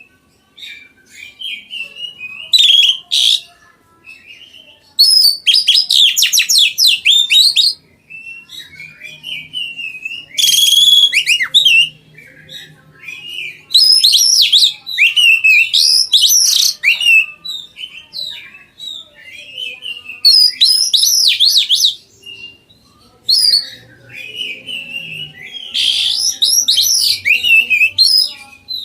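A caged songbird singing loud phrases of rapid, varied chirps and whistles, each a second or few long, with short pauses between them.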